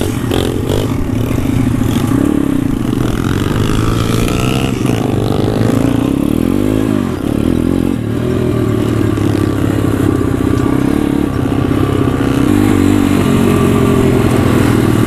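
Small off-road motorcycle engine running under way, its pitch swinging up and down briefly about five to seven seconds in as the throttle is worked.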